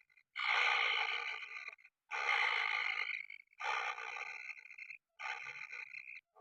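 Kingfisher chick giving four drawn-out, rasping begging calls in a row, each lasting about a second or more, with short gaps between them.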